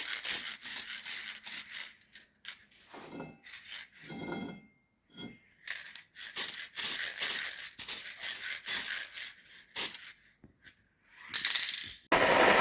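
Irregular scraping and rattling of small parts being handled, in short uneven bursts with pauses between them. Near the end a loud, steady machine noise starts abruptly.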